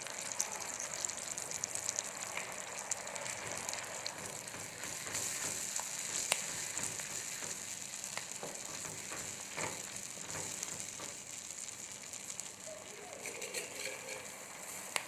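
Tomato sauce cooking in oil in a pan, with a steady sizzling hiss and a few faint clicks.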